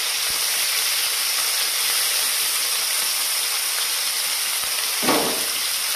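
Garlic, green chillies and onion greens sizzling in hot oil in an aluminium kadhai, a steady high hiss. About five seconds in there is a brief, louder sound.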